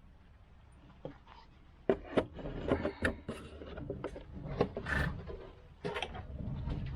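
Clicks, knocks and scraping of the VW Golf 1.9 TDI's fuel filter and its housing being worked loose and pulled out by hand, starting about two seconds in.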